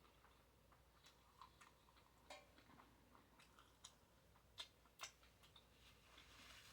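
Near silence, broken by a dozen faint, irregular clicks and ticks. Two slightly louder clicks come a little past halfway.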